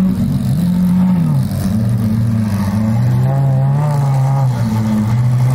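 A car engine revving up and down quickly a couple of times, then running at a steadier pitch.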